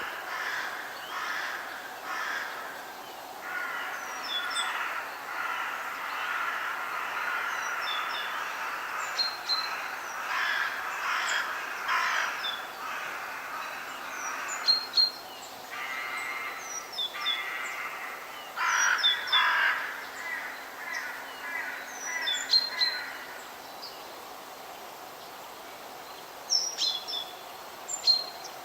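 Birds calling in woodland: loud, rough calls come in groups several times, over scattered short, high chirps from smaller birds.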